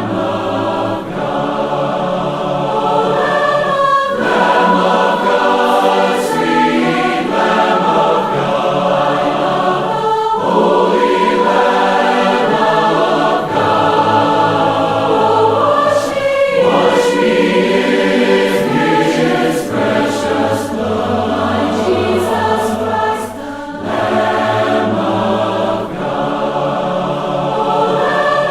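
A choir singing a hymn a cappella in several-part harmony, with held chords that change every couple of seconds.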